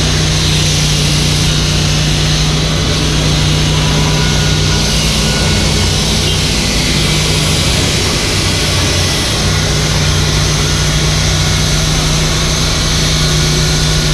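Mini excavator's diesel engine running steadily, with a dip in its note about halfway through.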